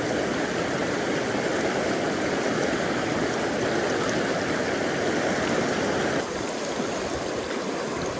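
River water rushing steadily, a slight drop in level about six seconds in.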